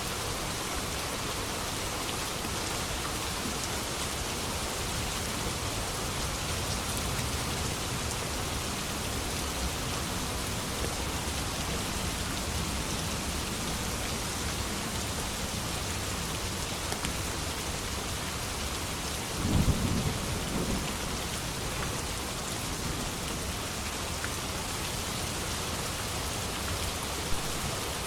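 Steady rain falling, with one short low thunder rumble about two-thirds of the way through.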